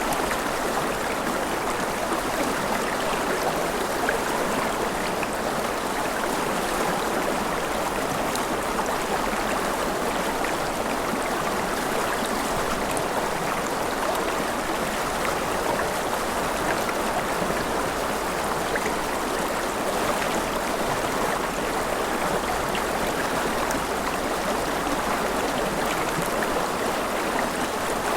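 Mountain river flowing over rapids: a steady, even rush of water with small splashes and gurgles.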